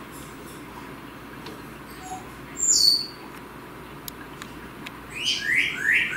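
Bird calls: a loud, high falling whistle about three seconds in, then a run of four quick falling chirps near the end.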